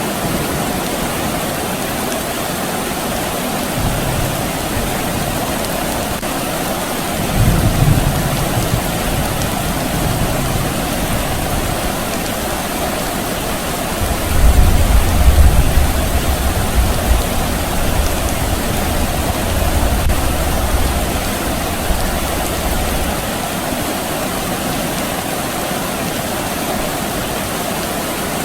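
Steady rain falling, with low rumbles of distant thunder: short ones early on, then a longer, louder rumble lasting several seconds from about halfway through.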